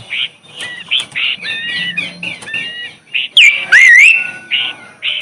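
A songbird singing a rapid run of short chirps and whistled notes, some sliding in pitch, with a loud swooping whistle about three and a half seconds in.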